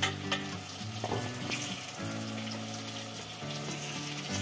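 Potato sticks and okra sizzling as they fry in hot mustard oil in a pot, with a couple of light metal taps near the start and about a second in. Background music of held low notes runs underneath.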